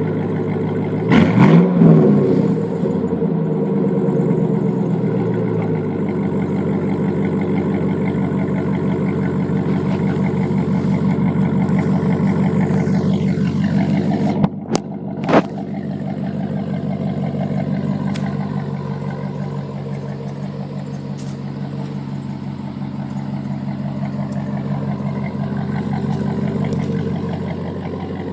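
A 4.8-litre V8 in a 2007 GMC Classic work truck running through a Flowmaster Super 10 dual exhaust with no catalytic converters. It gives a quick rev about a second in, then settles into a steady run. Two short clicks come about halfway through.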